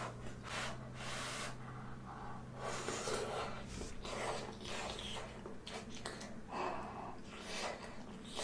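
Close-miked eating: chewing a mouthful of kimchi dumpling, with irregular huffing breaths between chews.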